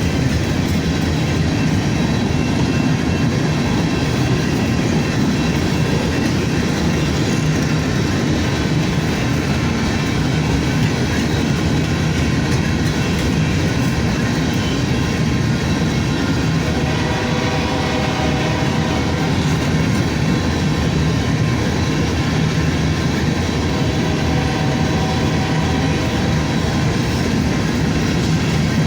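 Freight train rolling past at speed: a steady, loud rumble of railcar wheels on the track with no letup. A faint ringing tone rises out of it twice in the second half.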